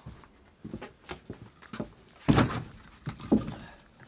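Split firewood being stacked: a run of light wooden knocks as logs are set down against one another, with two heavier thuds a second apart just past the middle.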